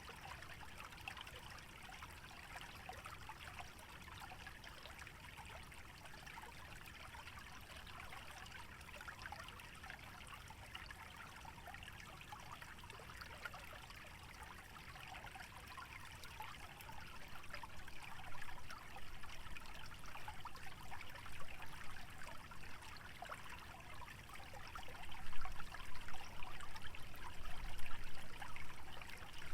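Shallow stream trickling and babbling over a wetland bed, a steady fine splashing. Over the last ten seconds it grows louder and uneven, with low rumbling gusts of wind in the dry vegetation and on the microphone.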